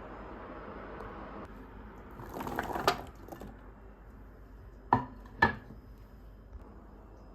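Kitchen handling sounds: a brief clatter of dishes and utensils about two and a half seconds in, then two sharp knocks half a second apart, as of things set down on a hard counter.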